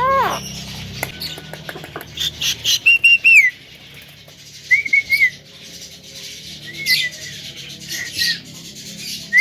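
Javan myna (jalak kebo) calling loudly: a falling whistled note at the start, then a run of clicks and harsh chattering, with short wavering whistles repeated about 3, 5, 7 and 8 seconds in.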